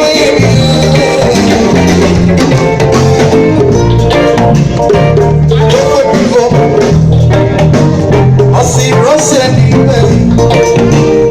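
Live band playing music with a heavy bass line, steady drum strokes and singing.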